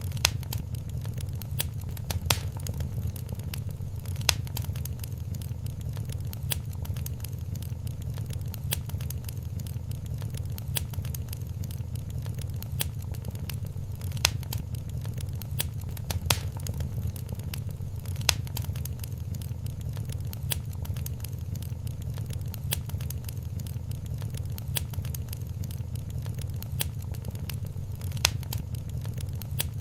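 Wood fire crackling in a fireplace: a steady low rumble of flames under a constant scatter of small crackles, with a few louder pops every couple of seconds.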